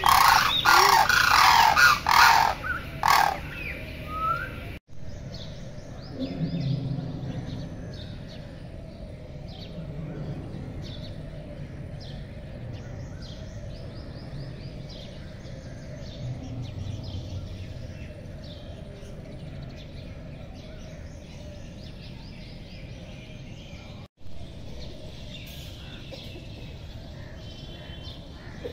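Birds calling loudly for the first few seconds, then, after a cut, many small birds chirping over a steady outdoor background.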